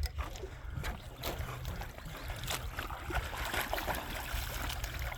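Lake water splashing and lapping, with many small irregular splashes.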